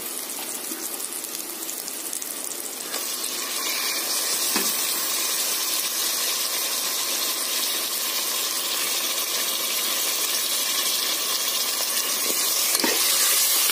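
Raw chicken pieces frying in hot oil, a steady sizzle that grows louder about three seconds in as the chicken goes into the pan. A spoon knocks against the pot a couple of times.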